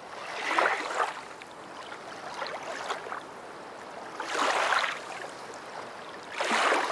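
Rushing, splashing water that swells and falls back about every two seconds.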